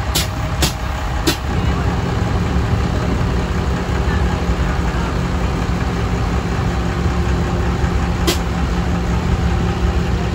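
Car engine running steadily at low speed. Three sharp clicks come in the first second and a half, and one more near the end.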